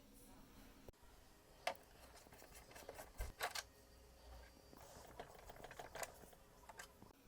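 Faint, scattered clicks and taps of tools and small parts being handled, with a few sharper clicks near the middle.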